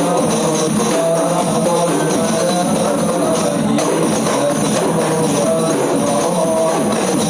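Rebana frame-drum ensemble playing a continuous rhythmic piece in rehearsal.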